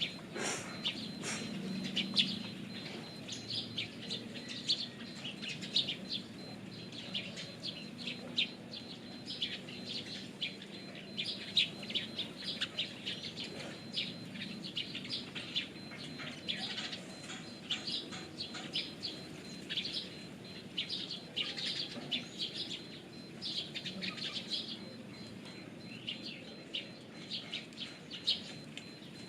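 Birds chirping in a dense run of short, high chirps, with a low, steady cooing underneath, as of pigeons.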